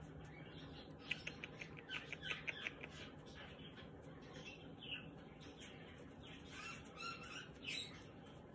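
Birds chirping and calling: short high chirps scattered throughout, with a quick run of chirps about a second in.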